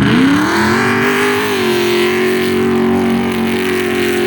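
Pro stock rally truck engine revving up sharply in the first second, then held steady at high revs.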